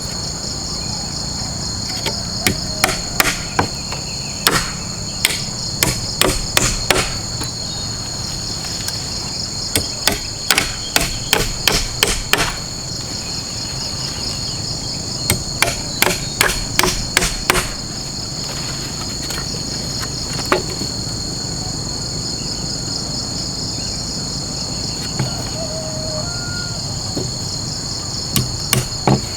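Runs of sharp hammer blows, several quick strikes at a time with pauses between, over a steady high drone of crickets or cicadas.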